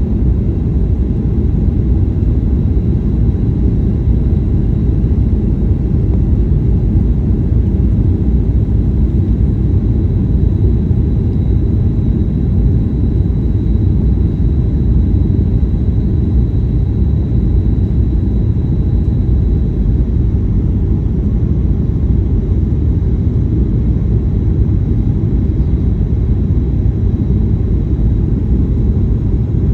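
Steady low rumble inside a Boeing 737's passenger cabin in flight: engine and airflow noise.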